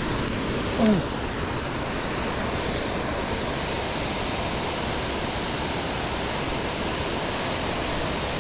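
Steady rush of a creek waterfall, an even wash of water noise. About a second in, a brief falling tone sounds over it.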